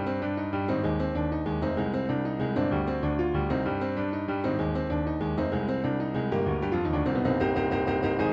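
Solo piano playing a busy accompaniment, with chords over held low bass notes and no vocal melody.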